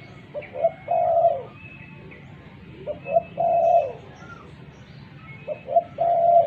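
Spotted dove cooing: three phrases about two and a half seconds apart, each two short notes and then a longer coo that falls in pitch at its end.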